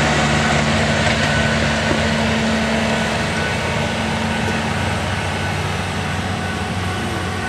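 Ford 861 diesel tractor engine running steadily at a low, even speed, with no revving.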